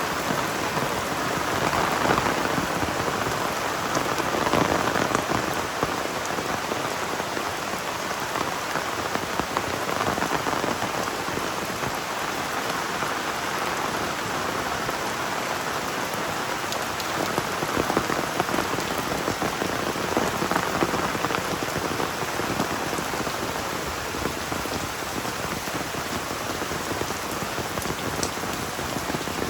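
Heavy rain falling steadily in a dense, even hiss, swelling louder for a moment now and then.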